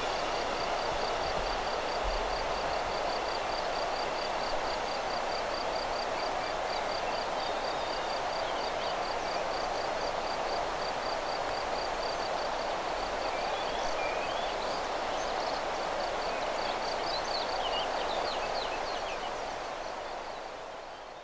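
Steady outdoor rushing background with a small bird repeating a thin, high note several times a second. Other short bird chirps come in over the last part, and everything fades out at the very end.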